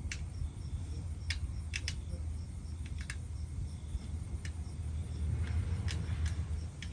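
Wind buffeting the microphone: a steady low rumble that rises and falls, with a few faint light clicks through it.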